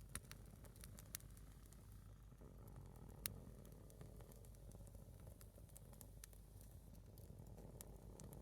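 A single split log of firewood burning low, crackling faintly with a few scattered sharp pops, the loudest about three seconds in, over a low steady rumble.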